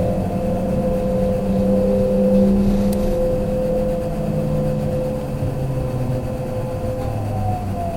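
Kintetsu limited express electric train heard from inside the car as it slows: steady running noise with motor whine whose tones slide down in pitch while the sound gradually fades, the train braking for a station stop.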